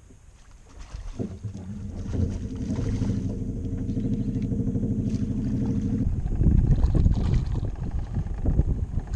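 A small boat motor running at a steady pitch, joined about a second in, then giving way about six seconds in to a louder, uneven low rumble.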